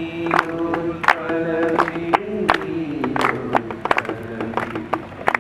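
A group of people singing together in chorus, a folk-style song with held notes, accompanied by loose, irregular hand claps.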